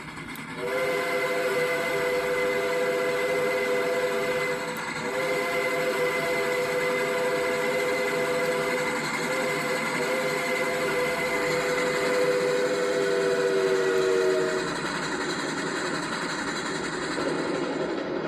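Southern 4501, a 2-8-2 Mikado steam locomotive, blowing its chime whistle in three long blasts, the chord dipping slightly in pitch as the last blast ends. Under it and after it, the steady running noise of the engine and its passenger train.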